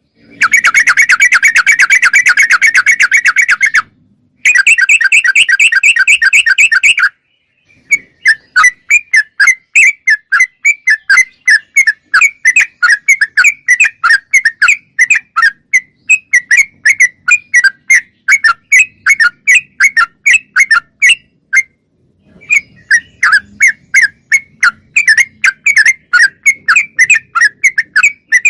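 Yellow-vented bulbul (trucukan) singing loudly. It starts with two runs of very rapid chattering notes, then gives a long series of short, clear notes at about three to four a second, with a brief pause about three quarters of the way through.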